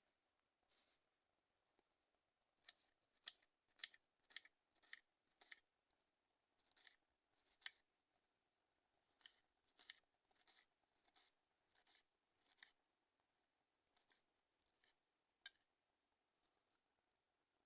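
A series of short, crisp cutting strokes in clusters of about two a second, with short pauses between the clusters.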